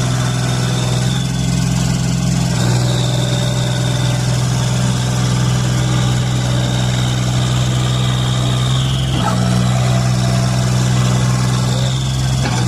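Tractor engine running steadily at a constant speed, its note shifting slightly twice.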